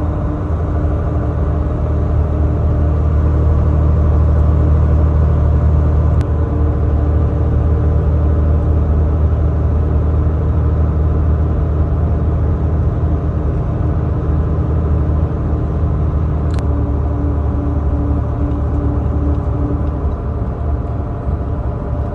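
Semi-truck running down the road: a steady low engine drone with tyre and road noise. Two short clicks, about six and sixteen seconds in.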